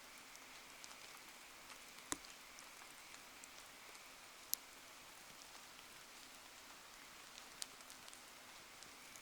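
Light rain falling, a faint steady hiss dotted with many small sharp ticks of drops, with three louder pops about two, four and a half and seven and a half seconds in.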